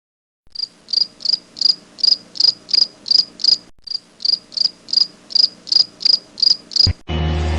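An insect chirping in a steady rhythm of about three high chirps a second, with a short break near the middle. Music starts near the end.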